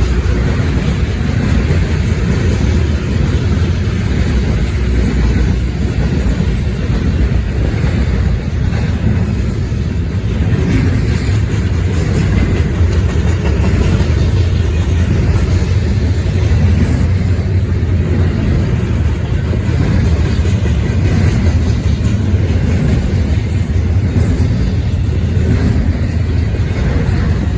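A freight train's cars rolling steadily past, with a low rumble and no distinct clacks, while wind buffets the microphone.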